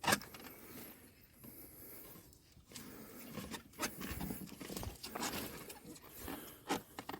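Scattered clicks, knocks and scrapes of a water-tank filter housing being handled and fitted back together, with a sharp click about 6.7 seconds in.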